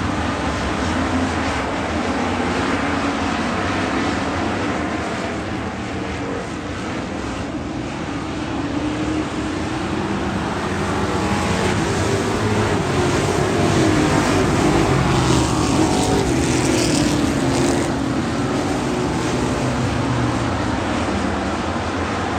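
Racing engines running continuously, the engine note wavering up and down in pitch as the vehicles go around the track.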